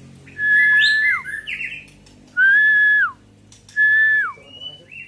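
White-rumped shama (murai batu) singing three loud, clear whistled notes about a second and a half apart, each held level and then sliding down, with shorter higher chirps in between.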